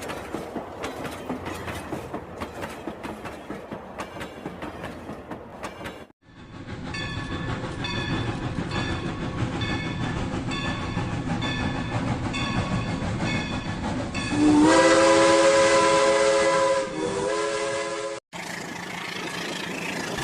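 Battery-powered toy train running on its track and playing its built-in train sounds. Rapid ticking comes first, then a regular clickety-clack rhythm. About fourteen seconds in there is a loud horn blast held for two or three seconds. The sound breaks off abruptly twice.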